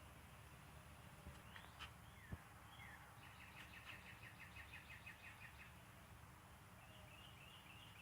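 Faint bird calls over quiet outdoor background: a few short chirps, then a quick, even trill of about fifteen high notes in the middle, and a brief twitter near the end.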